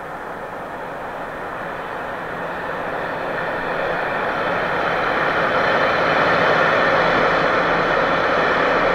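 Train approaching, its running noise swelling steadily for about six seconds and then holding loud.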